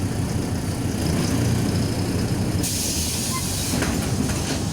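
Cabin noise of a MAZ 105 city bus under way: a steady low rumble, with a burst of air hiss from the bus's pneumatics starting about two and a half seconds in and fading about a second later.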